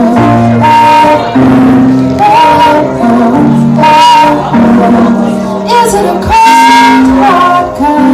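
Live band music: a woman singing a sustained melody over held chords.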